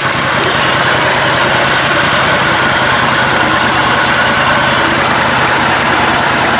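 Small engine of a lifted, modified riding lawn mower running steadily at low speed.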